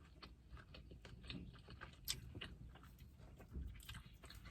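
Faint chewing of birria tacos, with small wet mouth clicks and smacks at irregular intervals and one sharper click about two seconds in.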